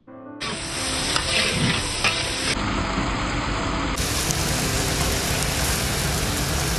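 Sliced onions and tomatoes sizzling in hot oil in a large wok, stirred with a long metal spatula. The sizzle sets in about half a second in and carries on steadily.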